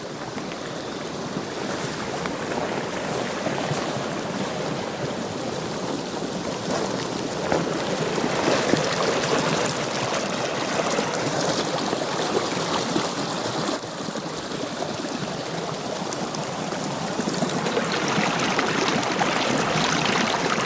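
Steady rushing of running water and falling rain, a continuous hiss that grows a little louder and brighter near the end.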